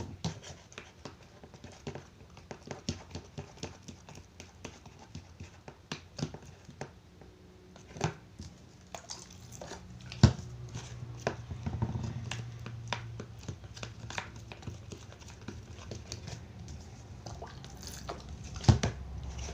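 Slime being mixed with activator in a container: an irregular stream of small clicks, taps and wet squishes, with a couple of louder knocks. A low hum comes in about ten seconds in and fades a few seconds later.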